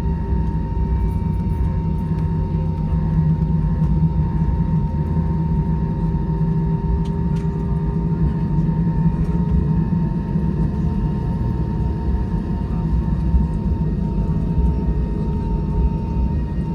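Cabin noise of an Airbus A320-232 taxiing on the ground: a steady low rumble from its IAE V2500 engines at idle, with a steady hum and a thin high whine over it.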